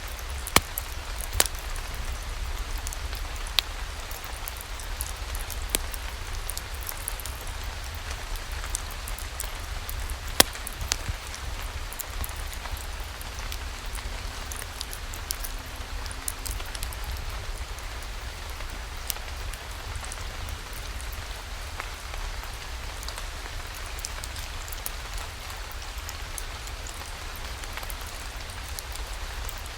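Steady rainfall with a low rumble underneath and scattered sharp ticks of drops, a few louder ones in the first half.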